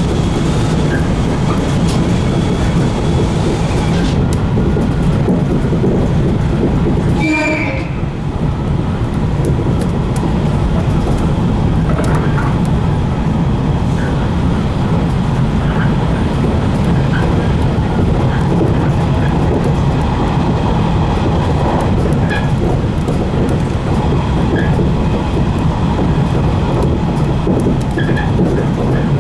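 JR 115 series electric train running along the line, heard from the front of the cab: a steady rumble of motors and wheels on rail with scattered light clicks. A brief sharper sound stands out about seven seconds in.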